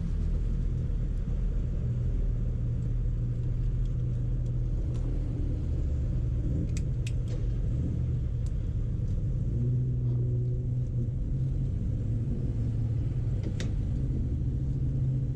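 Motorcycle V-twin engine running steadily at idle, a low even rumble, with a few light clicks scattered through it.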